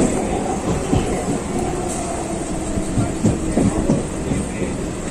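Local passenger train running, heard from inside the coach: a steady rumble with irregular clatter of the wheels over the rails.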